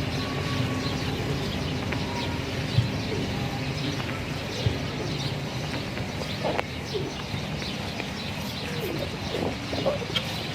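Birds chirping and calling, with several short lower calls in the second half, over a steady low background rumble.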